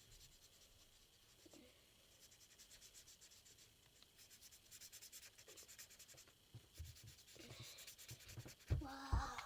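Quiet, quick back-and-forth scratching of a colouring pen on paper as a shape is drawn and coloured in. Near the end there is a short thump and a brief vocal sound.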